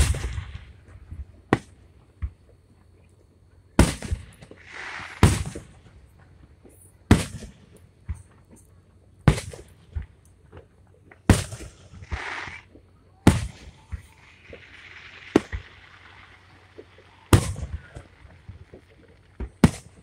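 Aerial firework shells bursting overhead in a steady succession of sharp bangs, about one every two seconds, some followed by a softer crackle.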